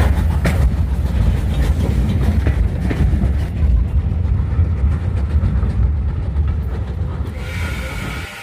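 Steam locomotive running on rails: a heavy low rumble with a few sharp clicks in the first second, slowly easing off toward the end.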